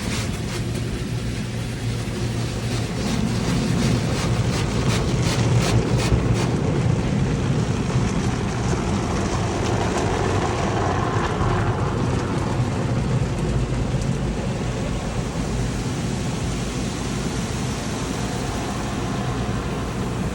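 Automatic tunnel car wash equipment running, heard from inside the car: a steady loud rushing of the wash's jets and blowers, with a spell of rapid pattering a few seconds in.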